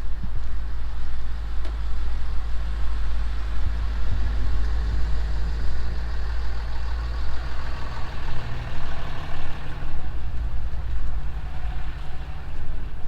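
Vehicle engine running with a steady low rumble and a swell of road or traffic noise through the middle.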